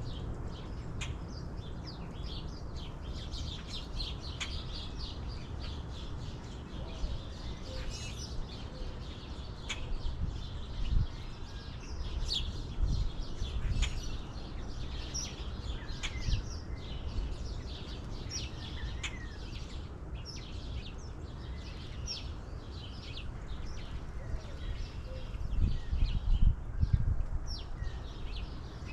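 Several birds chirping and calling in quick, overlapping short notes, with a few low rumbles now and then, the loudest about two-thirds of the way through and near the end.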